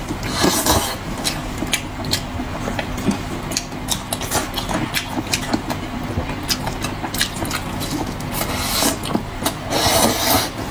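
A person eating pork knuckle close to the microphone: wet chewing and lip-smacking clicks at an irregular pace, with a couple of longer slurping or tearing bursts, over a steady low hum.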